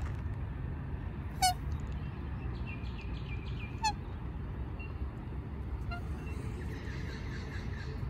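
Two sharp, loud squawks from a rail, about two and a half seconds apart, with a fainter third about six seconds in. Softer short calls come in quick series between them, over a steady low rumble.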